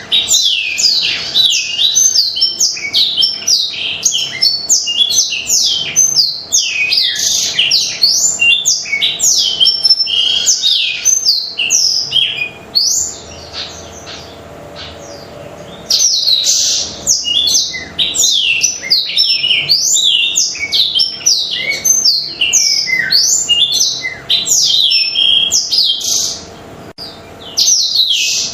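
Black-throated canary (blackthroat) singing in full song: a fast, unbroken run of high chirps and sweeping trill notes. The song breaks off for about three seconds midway and pauses briefly again near the end.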